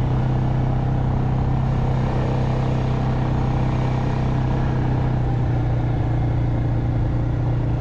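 Engine of a farm vehicle driving slowly along a wet dirt track, running at a steady, unchanging speed with an even low drone.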